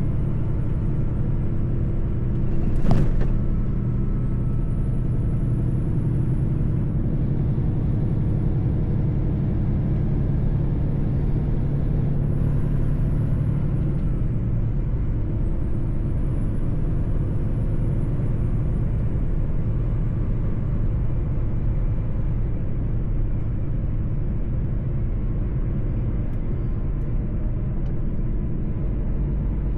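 Mercedes-Benz truck driving on the road: a steady low engine and road rumble, with a brief loud burst about three seconds in. A faint high whistle rises and falls over it.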